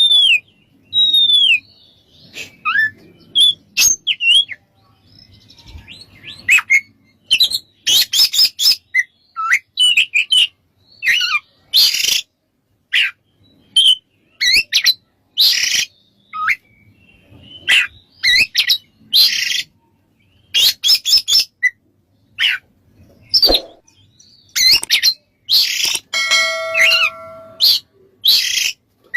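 Oriental magpie-robin (kacer) singing: quick phrases of whistled notes that slide up and down, mixed with harsh scratchy chatter, with short pauses between phrases. Near the end there is a brief buzzy phrase of steady held tones.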